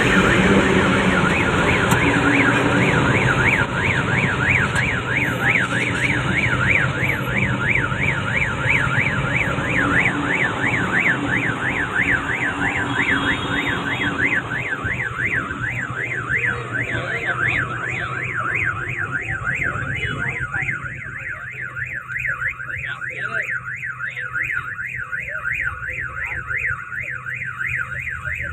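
An electronic alarm warbling fast and evenly, rising and falling about three times a second, over the low rumble of a passing train that dies away about halfway through.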